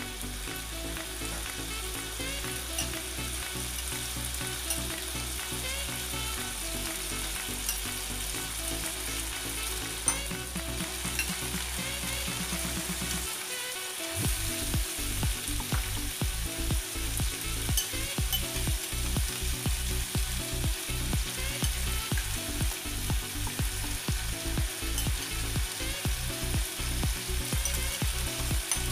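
Pork sizzling as it fries in a hot wok, stirred with a metal spatula, with one sharp knock about ten seconds in. About fourteen seconds in more marinated meat goes into the wok and the sizzling gets louder.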